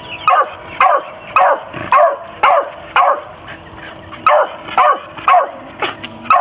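Beagle barking over and over, about two barks a second, each bark sliding down in pitch, with a pause of about a second midway.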